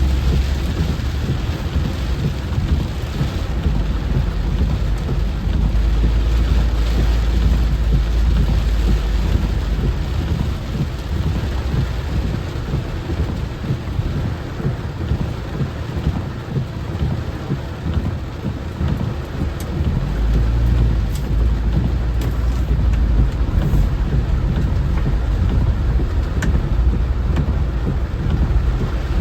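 Heavy rain falling steadily, with long low rumbles of thunder that swell a few seconds in and again about twenty seconds in.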